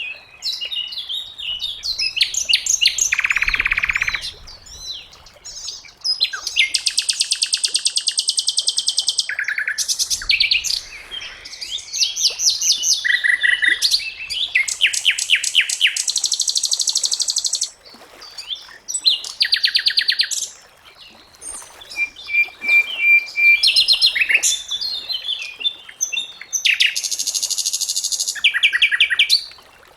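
Sikatan londo flycatcher singing a varied song of high chirps and whistled notes. The song is broken by several fast trills of rapidly repeated notes, each lasting a second or two, with brief pauses between phrases.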